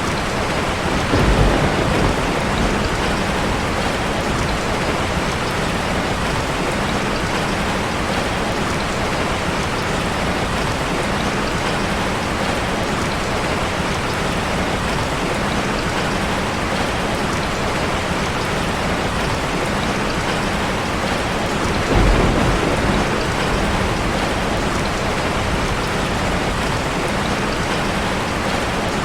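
Heavy rain hitting a car's roof and windows, a steady dense patter, with two short low rumbles of thunder, about a second in and about 22 seconds in.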